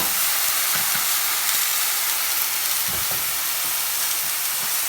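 Cube steaks searing in a hot frying pan, a steady sizzle, with a soft knock about three seconds in.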